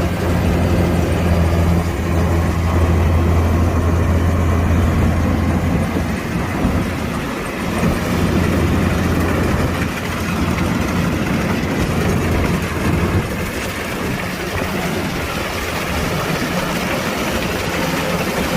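Kubota DC-105X combine harvester's diesel engine running steadily with a deep hum, which eases somewhat about six seconds in.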